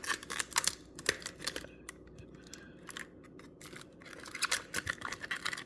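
Toy packaging being handled and opened: crinkling and tearing with many sharp crackles. The crackles are busiest at the start and again near the end, with a quieter stretch in the middle.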